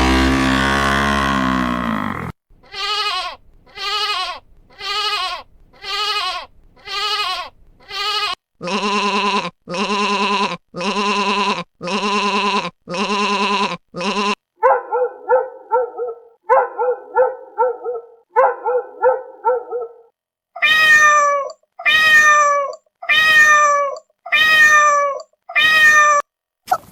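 Domestic cat meowing over and over in sets of repeated calls about a second apart, after a long call at the start. Seven calls, then six identical ones, then three quick runs of short calls, then six more that fall in pitch at the end.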